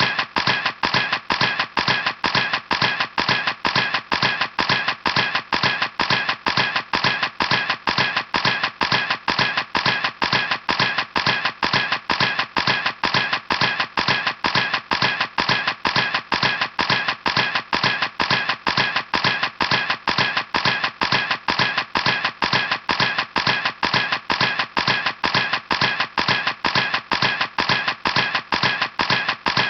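Camera shutter clicking over and over at an even pace, about three clicks a second.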